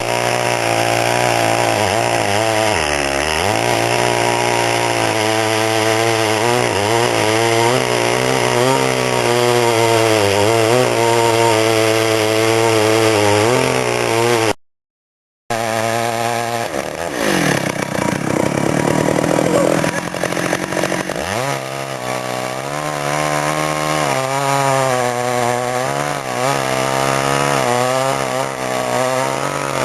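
Stihl chainsaw cutting wood, its engine pitch rising and falling as it loads and bogs in the cut, with one deep dip a few seconds in. The saw is running far too rich by the owner's account. About halfway through, the sound drops out for a moment.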